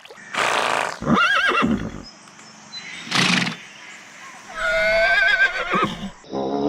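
A farm animal calling: a short pitched call about a second in and a longer wavering call near five seconds, with short breathy bursts before each. A different low, droning sound starts near the end.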